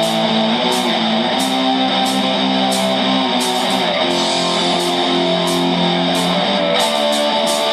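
Instrumental intro of a pop-rock song played live: guitar chords over a steady beat, before the vocals come in.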